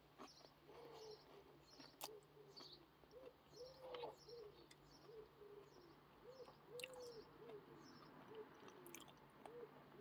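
Faint bird calls: repeated short, low cooing notes that rise and fall, about two a second, with higher chirps over them and a few soft clicks.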